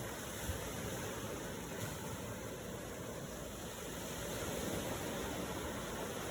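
Ocean waves washing steadily, swelling a little about two thirds of the way through.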